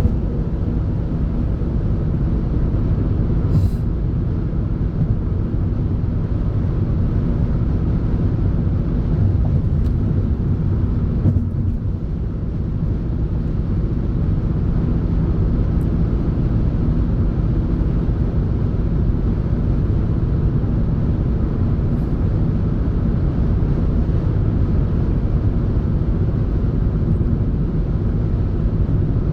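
Road and engine noise inside a moving car's cabin: a steady low rumble that dips briefly about twelve seconds in.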